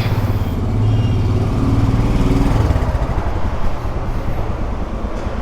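Motorcycle engine running with a steady low pulsing hum, a little louder for the first few seconds, then easing off.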